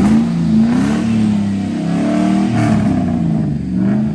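Truck engine revving again and again, its pitch rising and falling about once a second.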